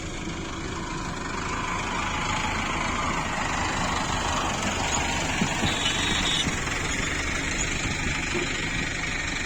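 Preet 987 combine harvester's engine and machinery running steadily, a little louder after the first couple of seconds.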